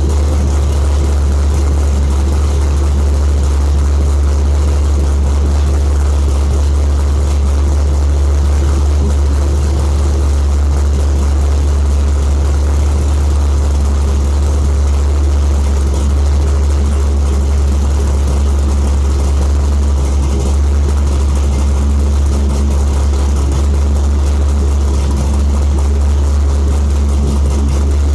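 C5 Corvette's 5.7-litre LS V8 with an aftermarket camshaft idling steadily after a cold start, with the choppy, loping idle of a big cam.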